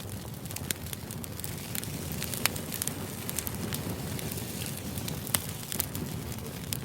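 Crackling fire: a steady low rumble with irregular sharp pops and snaps.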